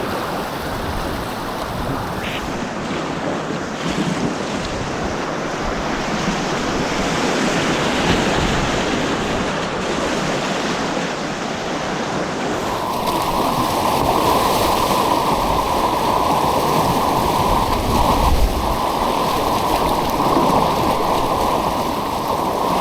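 White water rushing and churning around a kayak on an artificial slalom course, a continuous loud roar of turbulent water. About halfway through the sound shifts, with more weight in the lower range.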